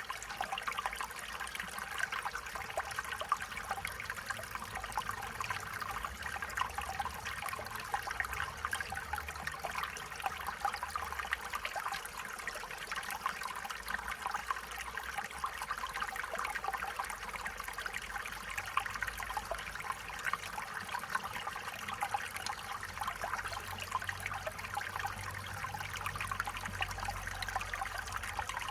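A small stream running steadily over stones, a continuous bubbling and trickling with a faint low rumble underneath.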